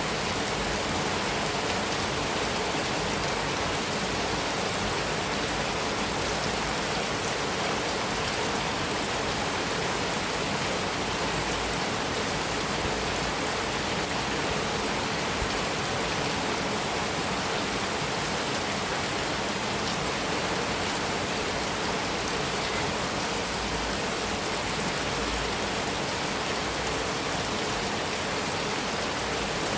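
Heavy rain falling steadily on a metal roof, a dense even patter with no thunder.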